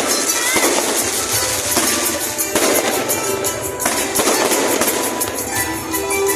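Fireworks and firecrackers going off in a dense, continuous rapid crackle, with music playing underneath.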